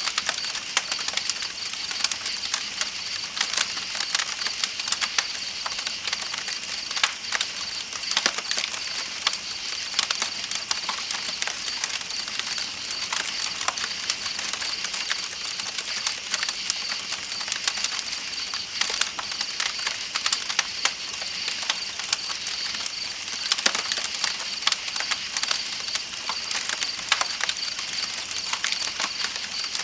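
Campfire crackling with many small, irregular pops over a steady high, pulsing chorus of night insects and a hiss of flowing river water.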